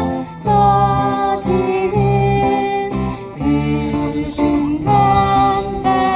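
Acoustic guitars strumming a Korean folk song, with voices singing held notes over them. The music dips briefly just after the start.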